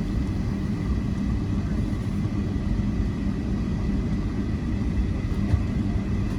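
Steady low rumble and hum inside an airliner cabin before departure, with a faint high steady whine above it.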